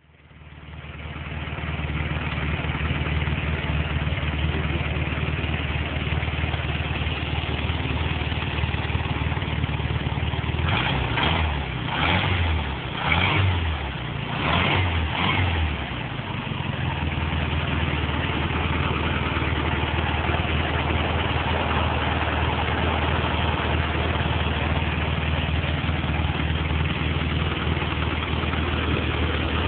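A Volkswagen Beetle 1600cc air-cooled flat-four fitted with Kadron 40 carburettors, idling steadily. About ten seconds in it gets a quick series of five or six short throttle blips over some five seconds, then settles back to idle.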